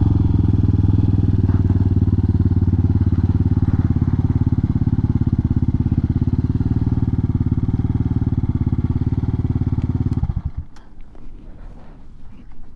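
Hawk 250 single-cylinder motorcycle engine idling steadily, then shut off about ten seconds in; a few faint clicks follow.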